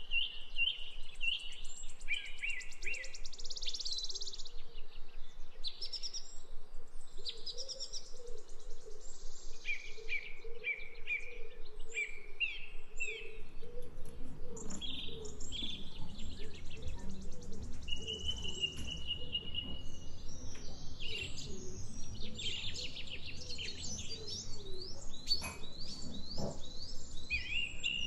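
Backyard songbirds chirping and calling, with many short overlapping chirps, trills and whistles and a longer held whistle a little past the middle. A low background rumble comes in about halfway through.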